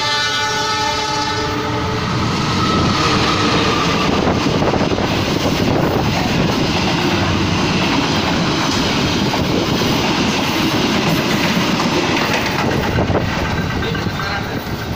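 Passenger train sounding its horn as it comes in, the steady chord stopping about a second and a half in. The train then rushes through the station at speed, a loud even roar of wheels and coaches that eases a little near the end.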